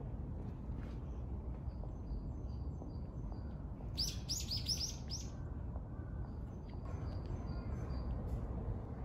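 Birds chirping: faint short high chirps repeating throughout, and a quick run of about six sharp, loud, high calls about four seconds in, over a steady low background rumble.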